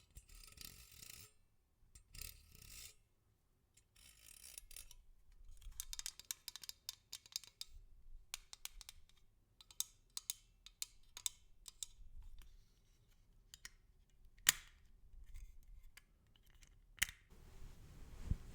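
Close-miked ASMR trigger sounds: three short scratchy rubbing strokes, then a busy run of small crisp clicks and crackles that thins out into scattered single clicks, with two sharper snaps near the end.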